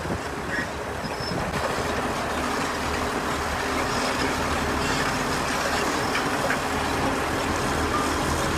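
Diesel engine of heavy earthmoving machinery running steadily with a low, even drone, getting a little louder about a second and a half in.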